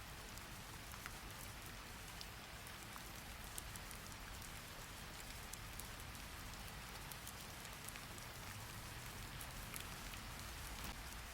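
Faint steady rain, an even hiss with scattered sharp little ticks of drops at irregular moments.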